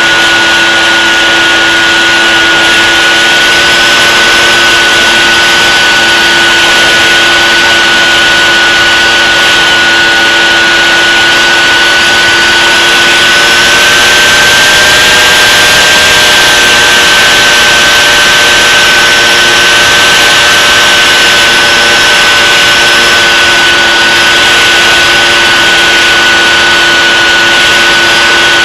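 Drone motors and propellers running steadily in flight, a loud high whine that rises slightly in pitch about halfway through and then eases back.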